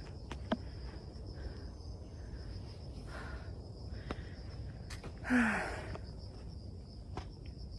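Steady high-pitched drone of insects along a hillside trail, with a few faint footstep-like clicks and one short louder noise about five seconds in.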